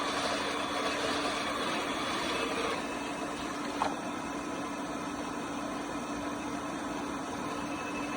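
Robot vacuum cleaner running with a steady motor hum, a single click about four seconds in.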